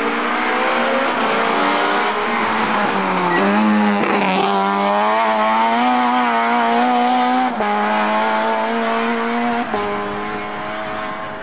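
Rally car engine at full throttle, its pitch climbing and then holding high, broken by two quick upshifts about eight and ten seconds in, then fading as the car pulls away.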